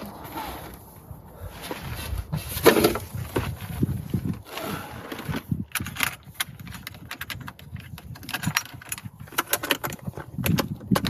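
Handling noises from unpacking a portable 12-volt fridge: rustling with many small clicks and knocks, coming thicker in the second half.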